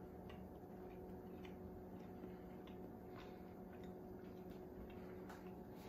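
Faint, irregular soft mouth clicks from chewing a bite of fried fish, over a steady low hum in a quiet room.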